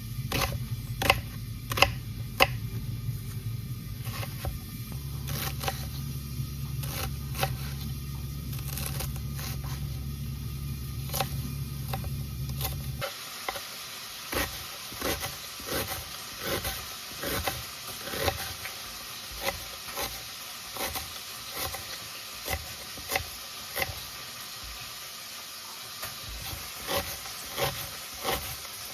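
Food frying in a pan, a steady sizzle with repeated scrapes and knocks of a cooking utensil. A low hum runs under the first half and stops about thirteen seconds in.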